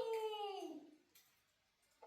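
A child's voice holding a long, high, drawn-out note that slides down in pitch and fades out about a second in.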